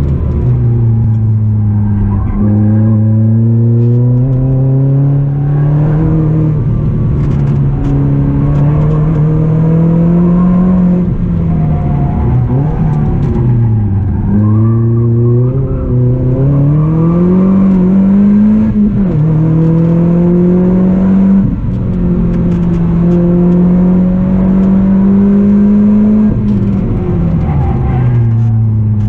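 Lotus Elise S220's supercharged 1.8-litre four-cylinder engine with a Stage 3 Lotus exhaust, driven hard and heard from inside the cabin. The engine note climbs in pitch through the gears, steps down at each gear change, and twice falls away under braking before climbing again.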